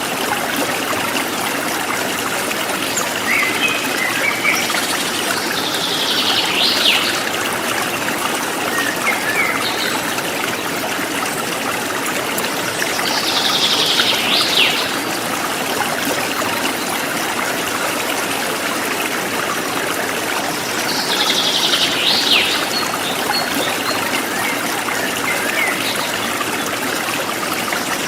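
Forest stream flowing steadily, with birds calling over it: one bird gives a short, high call about every seven seconds, and fainter chirps come in between.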